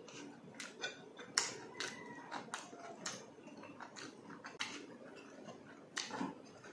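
Close-up eating sounds: irregular wet mouth clicks and lip smacks from chewing soft stewed tuna eaten by hand.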